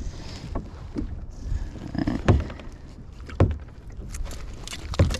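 Irregular knocks and thumps on a kayak hull, the loudest a little past two and three seconds in, over a low rumble of wind on the microphone.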